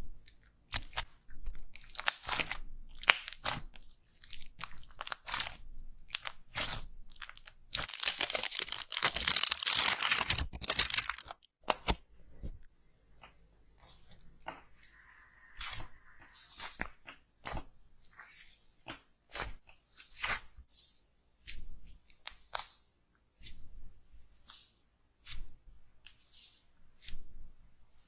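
Slime being squeezed and worked close to the microphone, crackling and popping irregularly. A dense run of crackling comes about a third of the way in, then the pops grow sparser.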